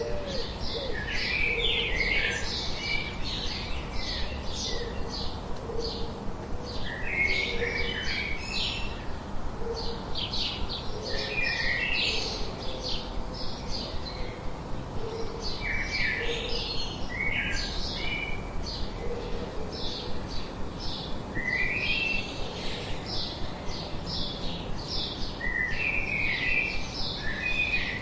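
Several birds singing and chirping: quick, high chirps repeat all through, with a short song phrase every few seconds. Soft low cooing sounds under them in the first half.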